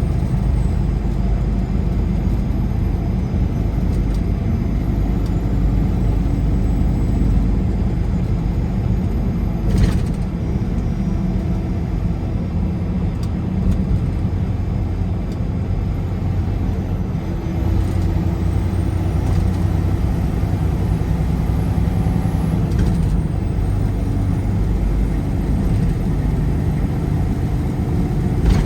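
Car driving at highway speed: a steady rumble of road and engine noise, with a short knock about ten seconds in.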